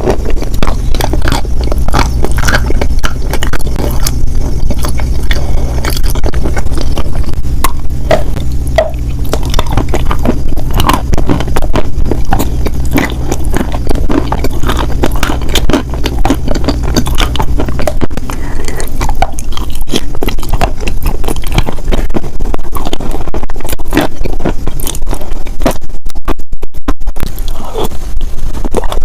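Close-miked scraping and crunching, a dense run of small crackles and clicks, over a steady low hum that stops about two-thirds of the way through.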